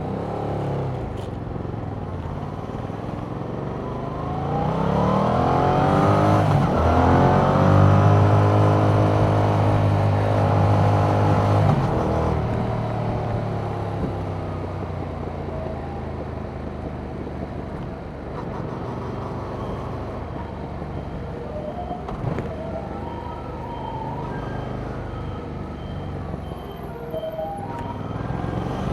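2021 Yamaha MT-07's 689 cc 270° parallel-twin engine through its stock exhaust. It pulls hard with the pitch climbing about four seconds in and holds high revs, then drops off throttle about twelve seconds in. It runs at lower revs for the rest.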